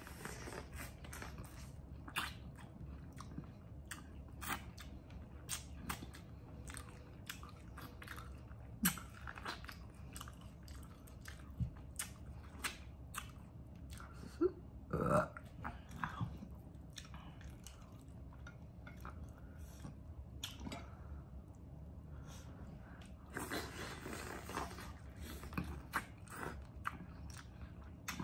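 Close-miked mouth sounds of biting and chewing corn kernels off the cob: many short crunching and smacking clicks. A short throaty vocal sound, the loudest moment, comes about halfway through.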